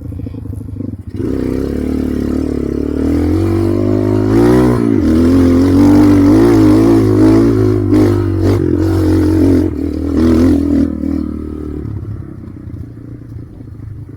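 Dirt bike engine revving under load on a climb, its pitch rising and falling as the throttle is worked, with a few clattering knocks. It is loudest from about a second in and eases off near the end.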